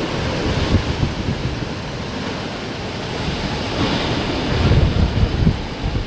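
Hurricane wind gusting and buffeting the microphone over a steady rushing roar of wind and rain, with a stronger gust about four to five seconds in.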